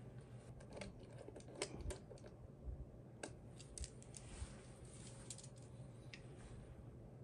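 Scattered light clicks and taps from the finished HHKB keyboard in its Heavy Grail aluminum case, about a dozen at an uneven pace and faint.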